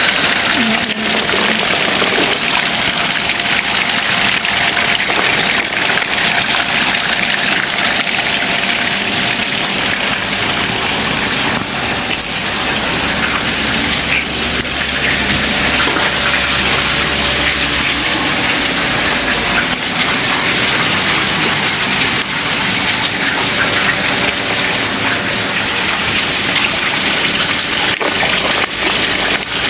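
Water rushing steadily, a dense continuous hiss, with a faint low rumble in the middle.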